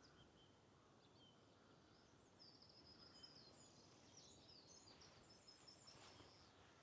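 Faint birdsong: a small bird sings a rapid run of short high notes starting a couple of seconds in, over quiet background hush.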